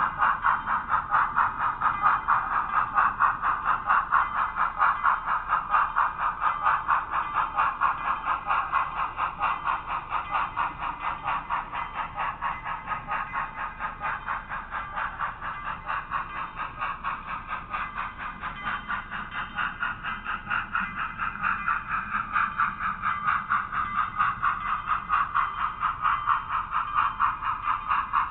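HOn3 narrow-gauge model train with a K-27 locomotive running on the track, heard from a camera riding on the train: an even rattle of quick clicks, about four a second.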